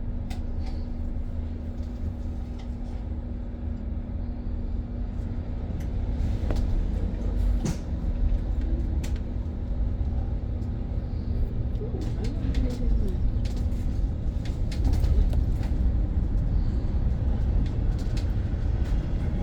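Cabin of a BYD BD11 battery-electric bus on the move: steady low road rumble with frequent short rattles and clicks from the interior fittings. A steady hum runs underneath and stops about two-thirds of the way through.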